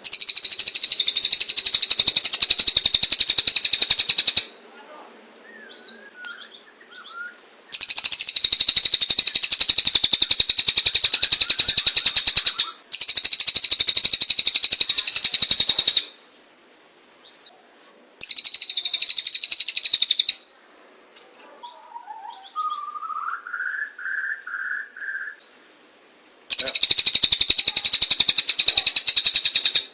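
Songbird training recording of cililin and canary song: long, loud, very fast high-pitched trills, five of them with short pauses between, and softer scattered chirps in the gaps. About two-thirds of the way through, a short run of lower whistled notes steps upward.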